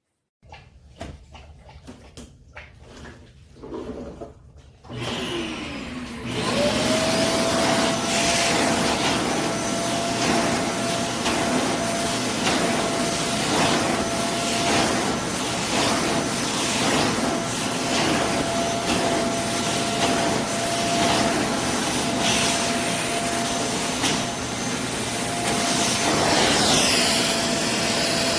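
Bissell Zing bagless canister vacuum: a few light handling knocks, then about five seconds in the motor is switched on and spins up, rising in pitch to a steady run with a constant high whine over the rush of air.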